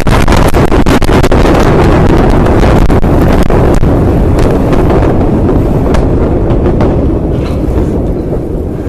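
Roar of the Beirut port explosion picked up on a phone: a loud, sustained rumble with crackling all through, slowly fading near the end.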